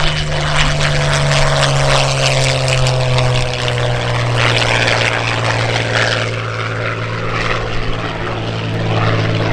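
Propeller airplane engine droning loudly as the aircraft flies past, its pitch sliding slightly lower over the first few seconds and then holding steady.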